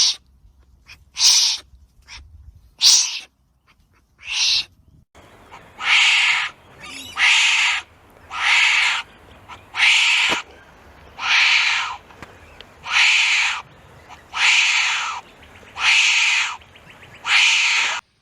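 Wombat calling repeatedly with harsh, hoarse calls: three short ones, then about nine longer ones, evenly spaced roughly every second and a half.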